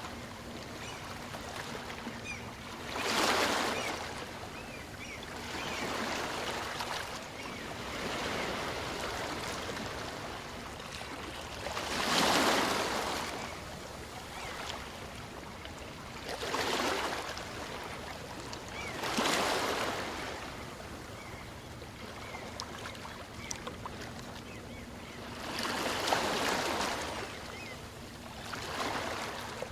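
Small waves of a calm sea washing onto a beach, each one swelling and falling back, about eight of them a few seconds apart, the loudest about twelve seconds in.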